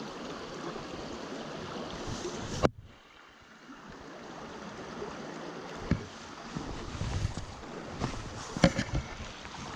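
Small mountain stream running, a steady rushing of water. A sharp click nearly three seconds in, after which the water sound drops away and slowly builds back, and a few light knocks near the end.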